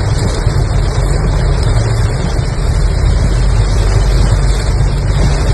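A car driving through heavy rain: a steady hiss of rain and road spray over the low rumble of the car's engine and tyres.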